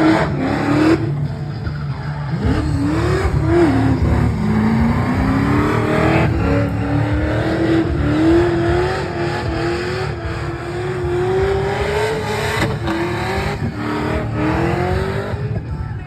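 Drift car engine held high in the revs, its pitch rising and falling again and again as the throttle is worked, with tyres screeching through the slide.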